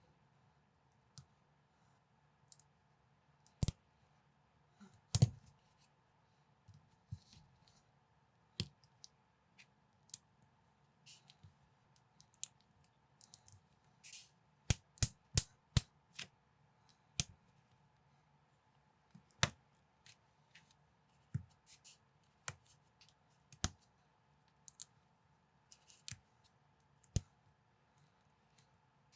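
Plastic Lego-compatible building bricks clicking as they are handled and snapped together: scattered sharp clicks, with a quick run of about five about halfway through. A faint steady hum lies underneath.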